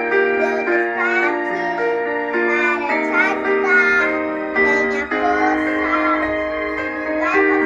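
Music: a young girl's voice singing a slow song, with sustained notes and vibrato, over keyboard accompaniment.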